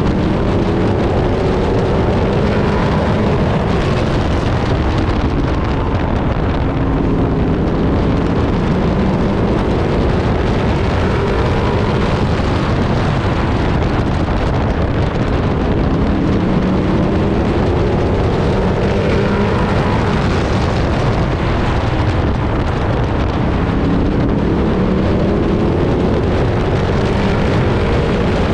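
Pro truck race vehicle's engine running hard on track. Its pitch climbs and drops over and over, several seconds per cycle, over a steady rush of wind and road noise.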